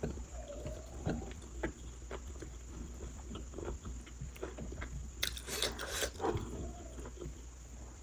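Quiet eating sounds: soft chewing with small mouth clicks, and a short breathy hiss a little after five seconds in.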